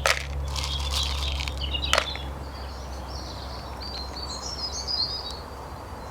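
Dry bird-food ingredients being mixed in a bowl: two sharp knocks about two seconds apart with a short rustle between them, while small birds chirp in the background.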